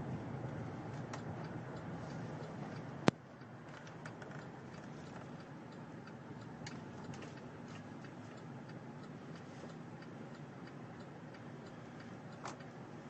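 Low, steady cabin and road noise inside a 2009 Chevy Silverado Hybrid pickup as it drives quietly, with one sharp click about three seconds in, after which the noise drops a little, and faint scattered ticks.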